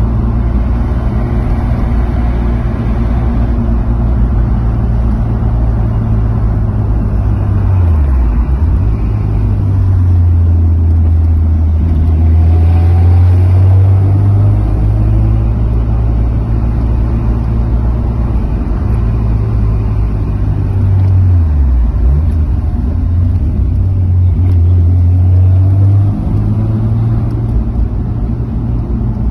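A car's engine and road noise heard from inside the cabin while driving, as a loud, steady low drone. The engine pitch drops and then climbs back about 8 seconds in and again about 22 seconds in as the car eases off and accelerates again.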